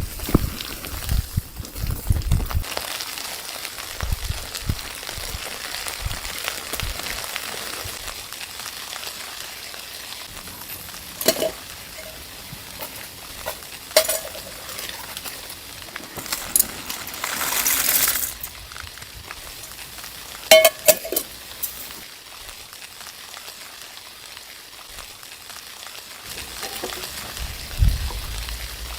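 Food sizzling in a pan over a camp fire or stove, a steady hiss with a louder stretch a little past the middle, and a few sharp metal clinks of a utensil against the pan.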